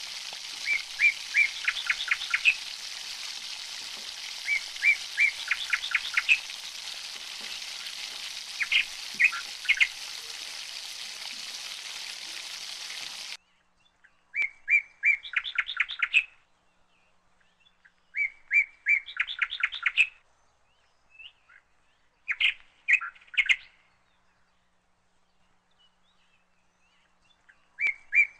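A small bird chirping in short repeated phrases every few seconds: a few quick notes, then a rapid trill. Over the first half there is a steady frying hiss from oil heating in a pan, which cuts off suddenly about halfway through.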